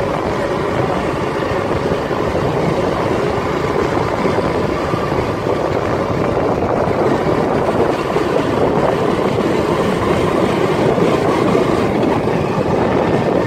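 A vehicle in motion, heard from on board: a steady, loud rumble of engine and road noise that doesn't change.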